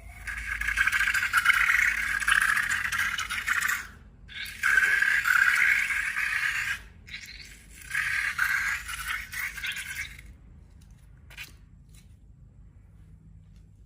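Three bursts of crackly scraping, each a few seconds long with short breaks between them, then a single faint tap.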